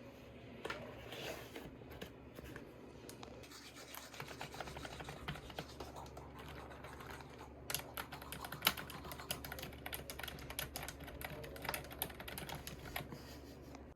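Typing on a computer keyboard: a few scattered key clicks and handling noise at first, then a quick, uneven run of key strokes from a few seconds in.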